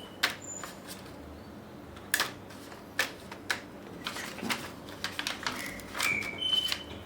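Scattered sharp clicks and taps of a laptop's plastic parts and connectors being handled, with a few short high tones about six seconds in.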